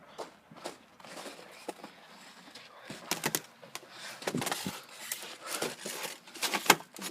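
Footsteps crunching in snow: an uneven run of sharp crunches, busier in the second half, with the loudest ones near the end.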